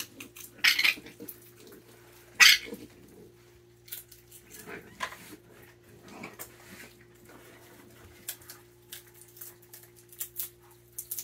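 Raccoons eating in-shell peanuts: many small cracks and clicks of shells being broken and chewed, with two louder, harsher noises about a second in and again a second and a half later.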